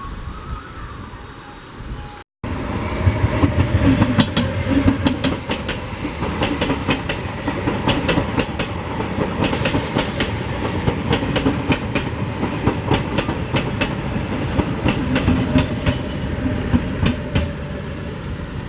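Passenger train passing at speed, its wheels clattering in quick repeated clicks over the rail joints. This follows a sudden cut about two seconds in, before which a quieter train sound is heard.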